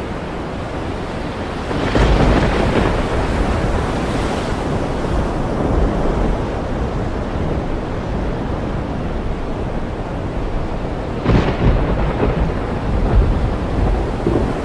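Caspian Sea surf washing onto the shore with wind buffeting the microphone, a steady rush with two louder surges, about two seconds in and again near eleven seconds.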